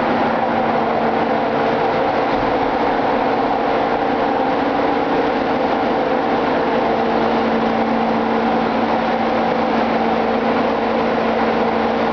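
Ship's engine room machinery running: a loud, steady din with a constant hum made of several held tones.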